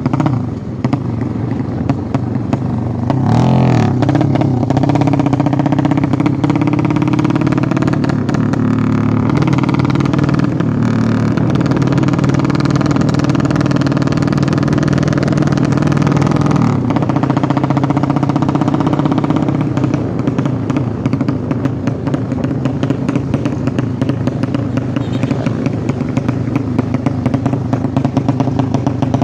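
Drag-racing motorcycle engine running steadily during a break-in run, its pitch shifting slightly now and then.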